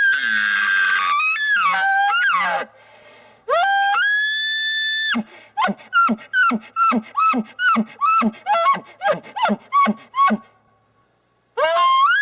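Bull elk bugle blown on a latex diaphragm mouth call. A high whistle breaks into a growl and a falling glide, then a second note rises and holds high. It is followed by a run of about fifteen short falling chuckles, roughly three a second, and another bugle starts rising near the end.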